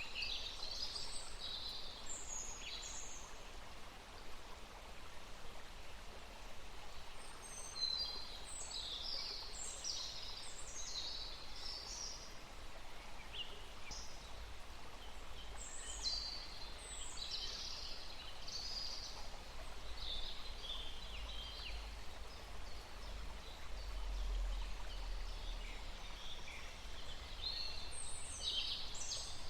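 Several small birds chirping and trilling in bursts, over a faint steady outdoor hiss and a low rumble.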